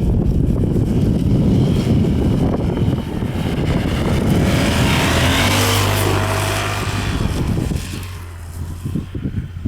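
Yamaha TDM 850 motorcycle's parallel-twin engine running under load as it rides through deep snow. A steady engine note comes through clearly from about halfway, and the sound falls off near the end.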